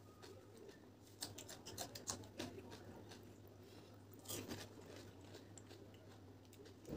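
Quiet close-up eating sounds: crisp crackling bites and chewing of a raw green chilli for about a second and a half, then a louder wet crunch about four seconds in as a whole pani puri shell is bitten into.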